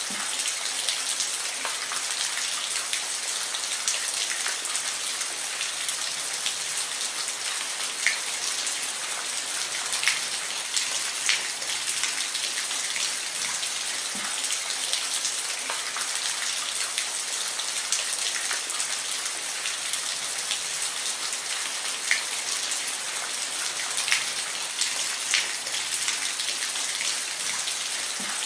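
Steady rain, a constant hiss of many drops with scattered sharper drips ticking out above it now and then.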